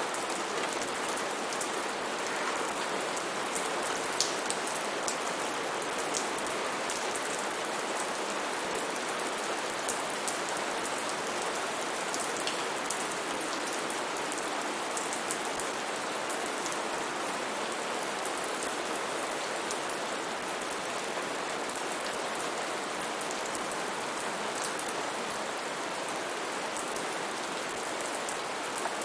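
Steady heavy rain falling on foliage, an even hiss with many distinct drops ticking close by.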